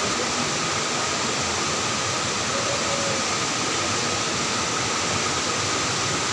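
Waterfall: a steady, even rush of falling water, with a faint steady high tone beneath it.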